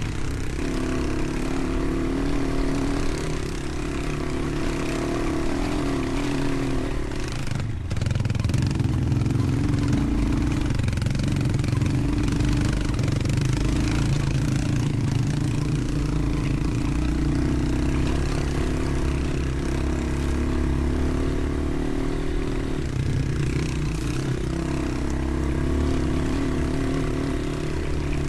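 Motorcycle engine running steadily while riding, with a short break in the sound about eight seconds in, after which the engine sounds louder.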